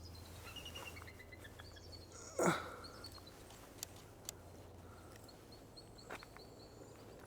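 Eagles calling overhead, a series of high, thin chirping whistles that come in several runs. A short, louder noise breaks in about two and a half seconds in.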